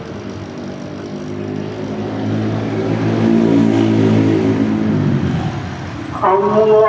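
A compressor motor running with a low hum that swells and then fades away.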